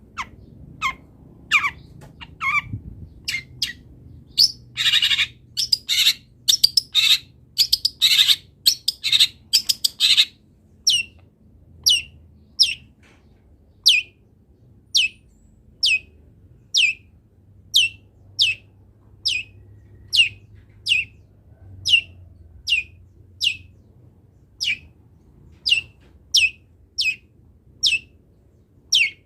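Long-tailed shrike (cendet) calling loudly: a crowded run of harsh, chattering notes for the first ten seconds or so, then a steady series of short, sharp, downward-sliding notes, about one and a half a second.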